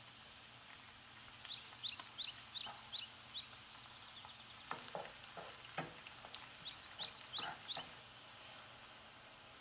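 Pork pieces with fresh ginger and garlic sizzling in hot oil, a steady frying hiss, with a few soft knocks. Over it a bird sings two quick runs of high, falling chirps, the first about a second in and the second near the end.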